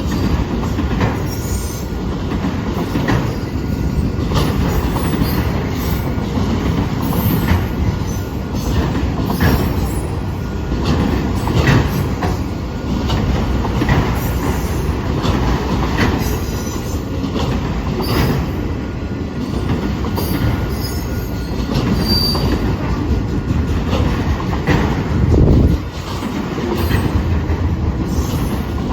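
Train rolling past, a steady rumble with wheels knocking over rail joints about every two seconds, and a brief thin squeal of wheels on the rails.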